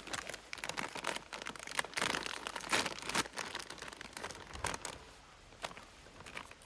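Irregular crinkling and crackling, like crinkly material being handled, busiest over the first three seconds and thinning out after that.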